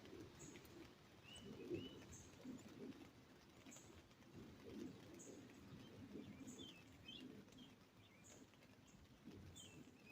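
Faint birdsong: a sharp, high chip repeated about once a second, a few short chirps, and soft low calls underneath.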